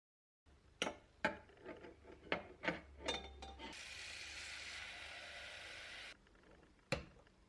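A run of light knocks and clinks, like kitchen utensils and dishes being handled, then a steady hiss for about two and a half seconds, then one more knock near the end.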